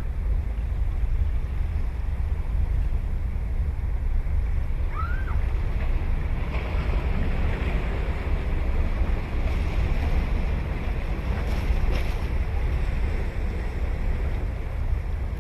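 Ocean waves breaking on a beach, with a wave's wash swelling a little before halfway through, over a steady low rumble of wind on the microphone. A single short bird call about a third of the way in.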